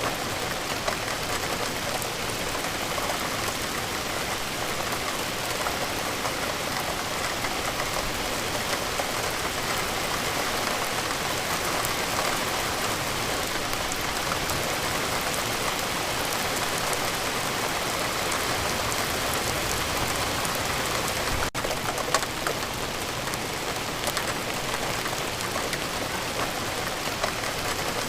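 Steady rainfall, a dense even patter of raindrops on a surface with many individual drop ticks. The sound drops out for an instant about two-thirds of the way through.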